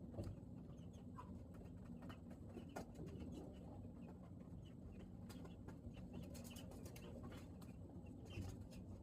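Faint, scattered peeping of young broiler chicks with a few light clicks, over a steady low rumble.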